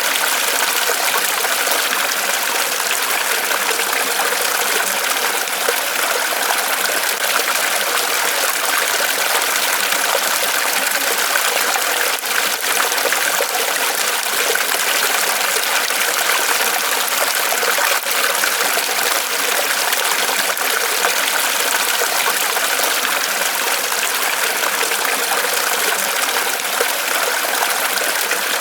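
Small waterfall of water trickling and splashing steadily off a tree trunk, a constant even rush.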